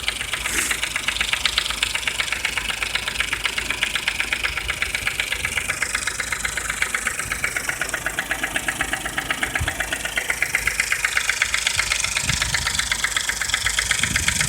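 Suzuki Jimny JB23W's K6A three-cylinder engine idling with a rapid, even knocking, which the owner puts down to the hydraulic timing-chain tensioner.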